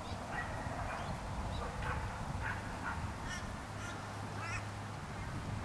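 Birds calling in a series of short, harsh calls, with a steady low hum underneath from a little past halfway.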